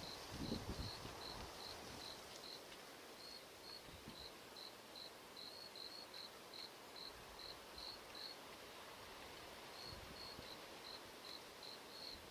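A cricket chirping at an even pace, about two to three short high chirps a second, with a pause of about a second and a half near the end. A few low thumps come about half a second in.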